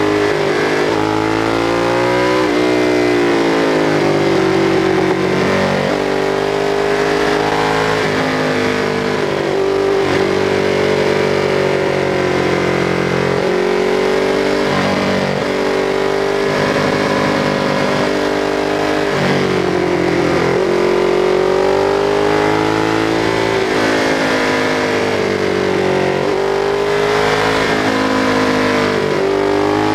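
Ducati 848's 90-degree L-twin engine pulling at speed, its pitch rising and falling over and over as the throttle is opened and closed, with wind rush over the microphone.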